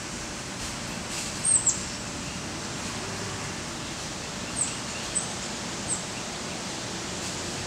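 High, thin bird calls, each a short downward slur, over a steady outdoor hiss. Two come close together about a second and a half in, and three more follow at even intervals in the second half.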